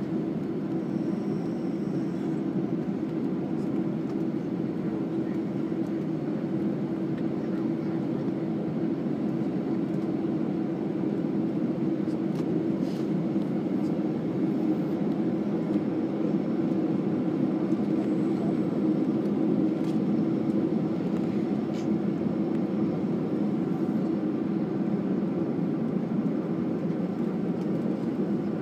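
Steady cabin noise inside an Airbus A320 on the ground: an even rush with a steady low hum from the engines and air-conditioning.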